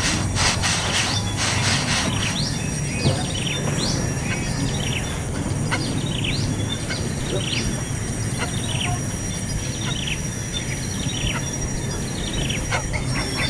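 Small birds chirping: many short, high chirps that fall in pitch, several a second, over a steady high thin whine and a low hum.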